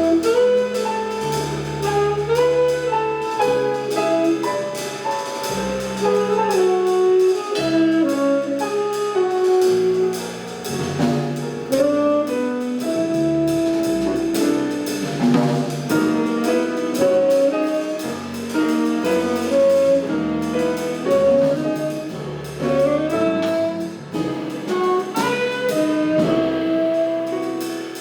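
Jazz quartet playing live: saxophone carries a fast, moving melody over piano, double bass and drum kit with cymbals.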